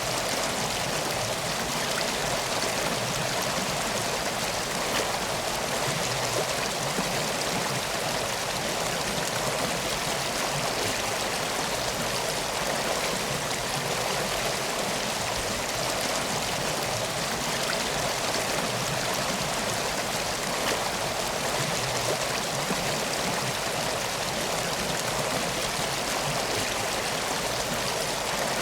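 Water running steadily, an even rushing with no distinct events.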